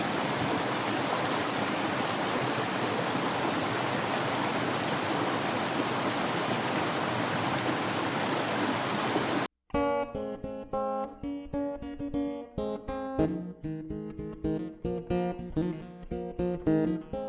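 A steady rushing hiss that cuts off abruptly about halfway through. Acoustic guitar music follows, with plucked, strummed notes.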